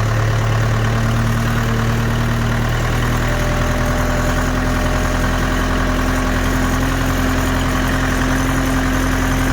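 Kubota two-wheel-drive tractor's diesel engine running steadily at low speed, heard close up from the seat, with a steady hum that rises slightly in pitch about three seconds in.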